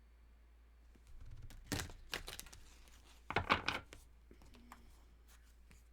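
Tarot cards being handled on a table: short papery rustles and taps in two bursts, the louder one around the middle.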